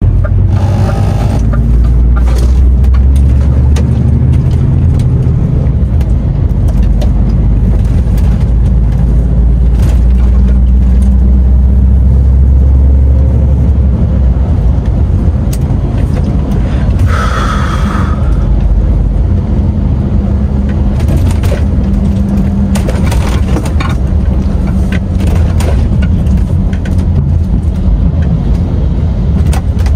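DAF XF 510 truck driving: a loud, steady low rumble of engine and road noise, heaviest in the first half and easing a little about halfway. Scattered clicks and rattles, and a brief higher squeal a little past halfway.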